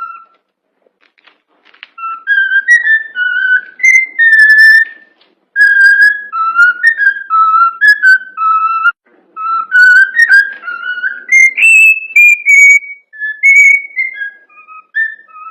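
Cockatiel whistling a tune: a string of clear notes stepping up and down in pitch, with a pause of over a second just after the start before the song resumes.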